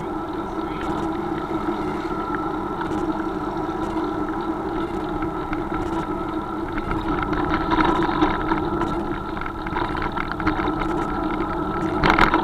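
A vehicle engine running steadily with a constant tone, and a short louder rush of noise near the end.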